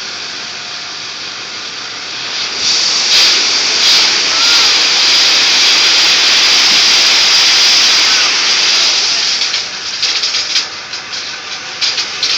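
Load of gravel sliding out of a tipped dump truck bed: a steady rushing hiss that swells about two and a half seconds in, then breaks into uneven smaller spills near the end.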